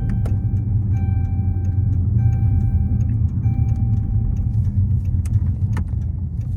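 Dodge Charger 392 Super Bee's 6.4-litre HEMI V8 rumbling at low speed, heard from inside the car. A steady tone sounds in roughly one-second stretches over the first four and a half seconds, along with a few light clicks.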